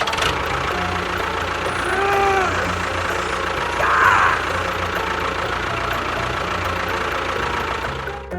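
An engine running steadily. A brief tone rises and falls about two seconds in, and a short louder burst of noise comes about four seconds in.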